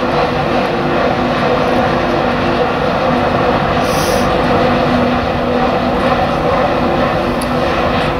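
Train running past, a loud steady engine drone with a few held low tones.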